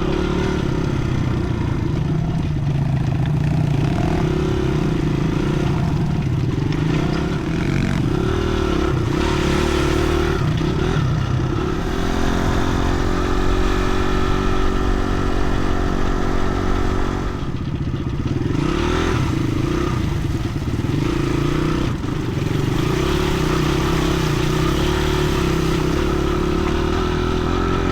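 Dirt bike engine running under way, its revs rising and falling with the throttle. It holds one steady pitch for about five seconds midway, then eases off briefly.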